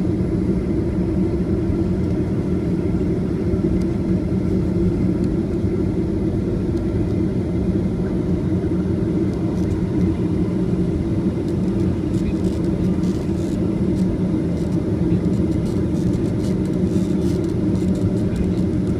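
Aircraft engine and airflow noise during landing: a steady low rumble with a few faint steady tones above it.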